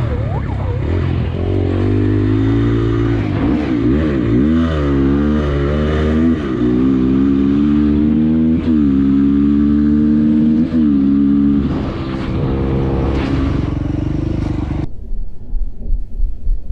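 Motorcycle engine running hard, its pitch rising and falling with throttle and gear changes, then holding high and steady at speed. About two seconds before the end the sound turns muffled and uneven.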